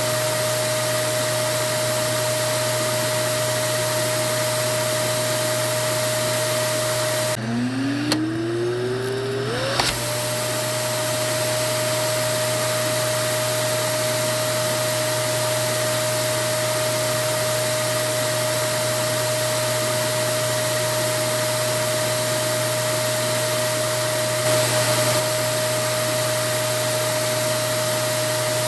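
Vacuum cleaner motor running steadily with a constant whine over its rushing airflow. About seven seconds in the sound drops out briefly, then the whine rises in pitch over a couple of seconds as the motor spins back up to speed.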